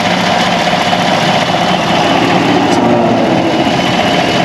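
2015 Chevy Silverado engine idling steadily under the open hood, a constant even hum.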